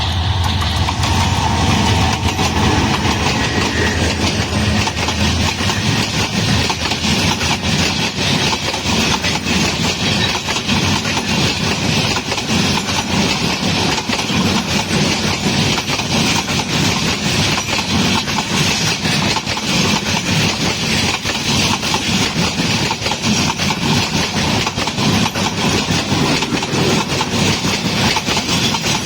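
A train running, with a steady, loud mechanical noise from the locomotive and wheels on the rails.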